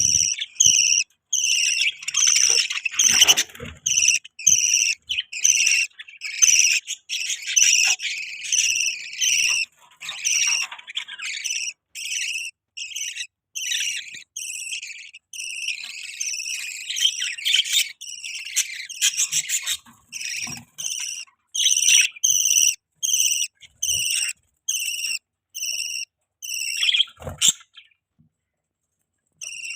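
Budgerigars chirping: a steady run of short, high chirps, about two a second, with a short pause near the end.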